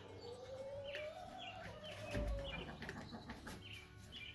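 Domestic hens calling in the coop: one long drawn-out call that rises and then falls over the first two seconds, over a steady run of short, high, falling chirps. There is a dull thud about two seconds in.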